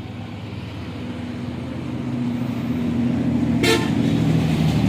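A motor vehicle's engine drawing near and growing louder, with a short horn toot about three and a half seconds in.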